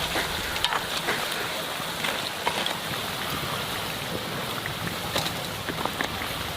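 Rice cakes frying in hot oil: a steady sizzle with scattered sharp pops and crackles.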